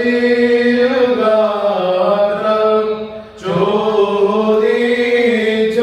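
Indian Orthodox liturgical chant sung in long, held melodic notes, with a brief pause for breath about three seconds in.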